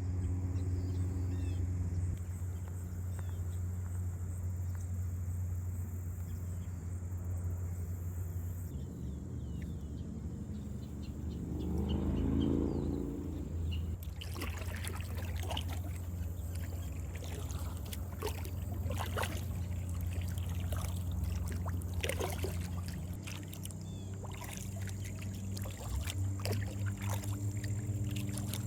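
Kayak paddling on a river: water splashing and dripping off the paddle blade in many short patters from about halfway in, over a steady low hum. Around twelve seconds in, a low rumble swells and fades.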